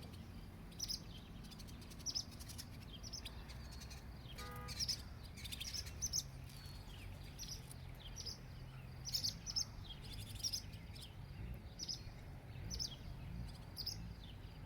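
Several small birds chirping, repeated short high chirps a few times a second, over a steady low background hum. A brief, lower call with overtones stands out about four and a half seconds in.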